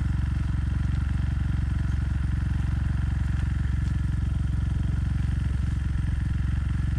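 Motorcycle engine running steadily at even revs, with no change in pitch.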